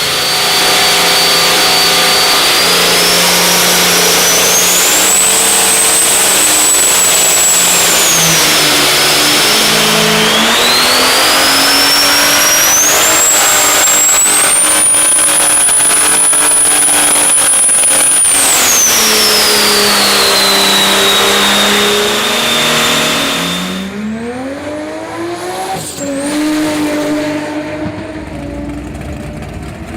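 Turbocharged Ford Barra 4.0-litre straight-six running hard, its turbo whistle climbing and falling with the revs and held at its highest pitch for a few seconds in the middle. Near the end it is quieter, with one brief rev rising in pitch.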